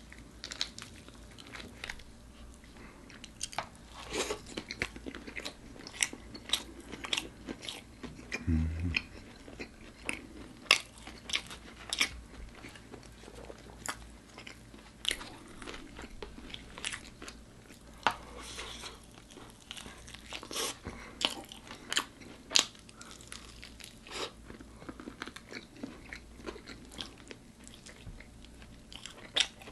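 Close-miked eating: a person biting and chewing crunchy crisp-coated chicken, with many sharp irregular crunches. There is a short low thump about eight and a half seconds in.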